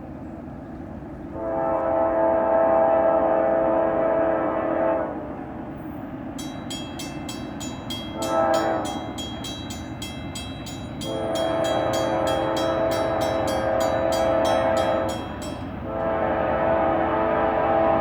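A Norfolk Southern freight locomotive's multi-tone air horn blowing the grade-crossing signal of two long blasts, a short and a long, with the last long blast running on past the end. A bell rings rapidly through the middle blasts.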